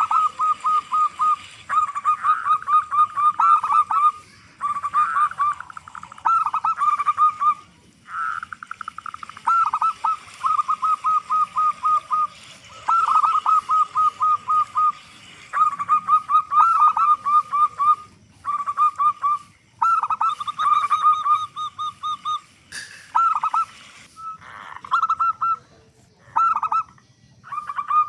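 Zebra dove (perkutut) cooing: repeated phrases of rapid staccato notes, each lasting one to two seconds, with short pauses between.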